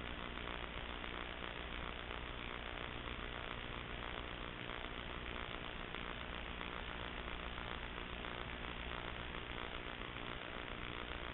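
Steady electrical buzz and hiss, typical of the audio track of a sewer inspection camera recording with no one talking. It stays unchanged throughout.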